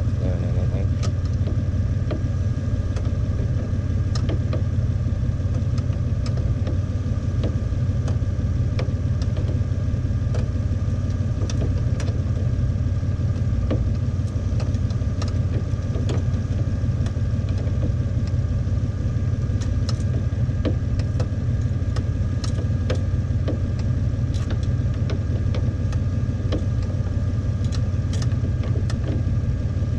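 2000 Toyota 4Runner's engine idling steadily, with scattered light clicks from a hand tool turning the headlight aim adjusters.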